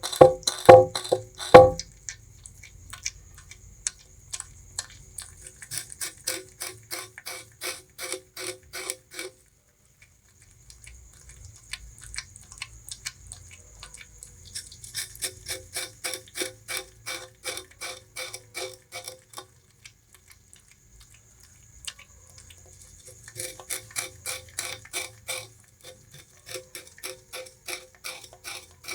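Bamboo rat gnawing and chewing sugarcane: quick trains of crisp crunches, several a second, louder in the first two seconds, coming in three bouts with short pauses between.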